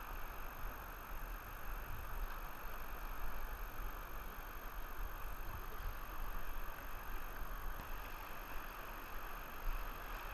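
Steady rush of river current flowing over rocks, with a low rumble underneath.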